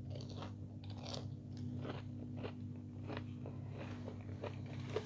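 Close-miked biting into and chewing a crispy breaded chicken nugget, a run of short crunches about twice a second. A steady low hum sits underneath.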